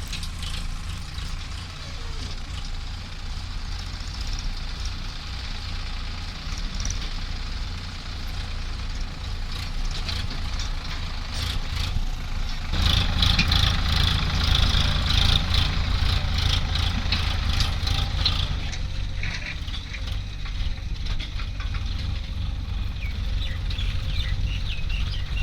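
Heavy diesel machinery engine running steadily at a low rumble, growing louder and rattlier for about five seconds in the middle before settling back.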